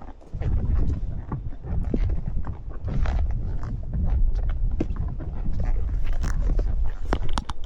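Horse walking on a trail, with scattered hoof clops over a heavy, rough low rumble, typical of wind or movement on the microphone while riding.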